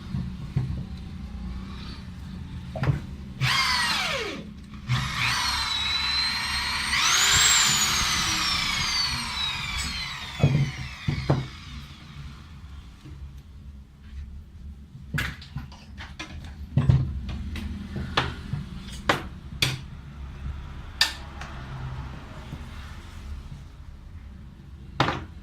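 Electric hand drill run twice: a short burst about three seconds in, then a longer run that climbs to a high whine and winds down in a falling pitch over several seconds. Scattered clicks and knocks follow.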